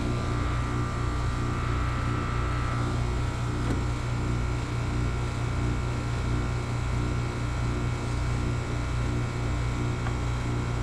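Steady low electric motor hum from running equipment, with an even drone and no change in pitch or level.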